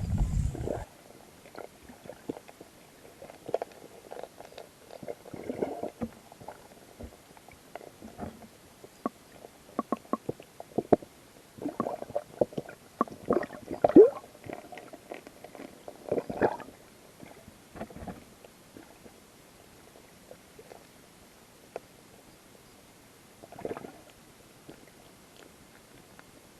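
Muffled water gurgles with irregular small clicks and pops, heard through a submerged camera housing; a low rumble stops under a second in.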